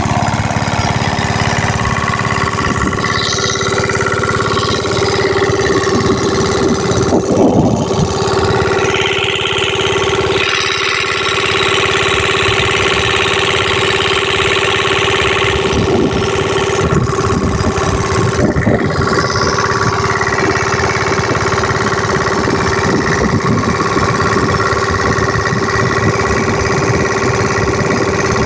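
Kirloskar diesel engine running steadily, a rapid knocking beat over a steady hum. A hiss rises over it for several seconds around the middle.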